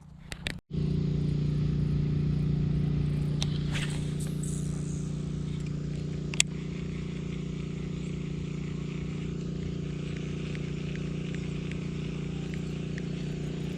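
Steady low machine hum with a few fixed pitches, plus one sharp click about six seconds in.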